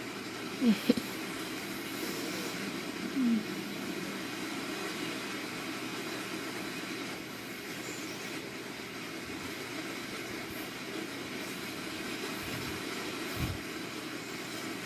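Steady rain ambience, an even hiss with a low rumble under it. Two short low sounds come about one and three seconds in, and a brief low thump comes near the end.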